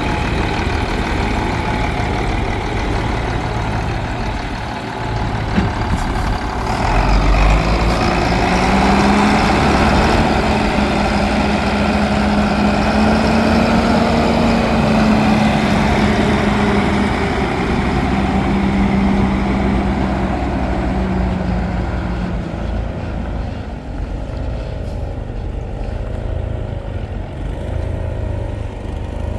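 Heavy truck engine running, revving up about seven seconds in and holding a higher speed until past twenty seconds, then dropping back to a lower run.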